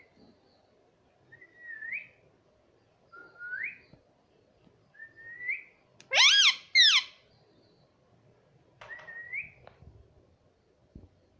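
Four short whistles that slide up in pitch, and about six seconds in a pet parrot's loud, harsh two-note call.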